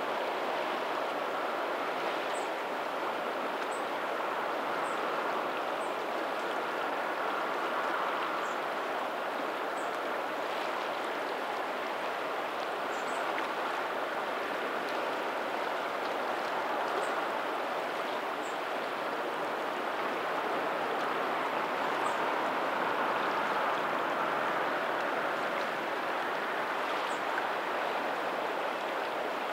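Steady rush of lagoon water flowing out over a pebbly shore toward the sea, with faint distant ocean surf, swelling a little in loudness about three-quarters of the way through. Brief faint high ticks sound every second or few.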